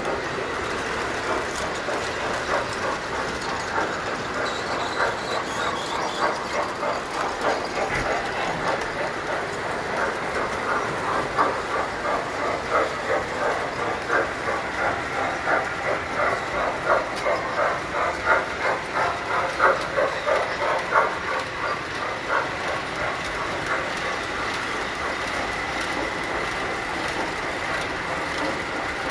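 Tinplate toy train running on tinplate track, its wheels clicking over the rail joints in a regular clattering rhythm. The clatter grows louder toward the middle and eases off near the end.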